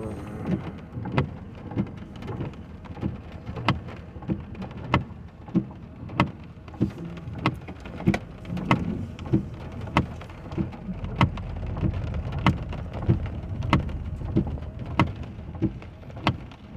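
Heavy raindrops tapping irregularly on a car's roof and windshield, heard from inside the cabin, over a steady hiss of rain, with a low rumble swelling in the middle.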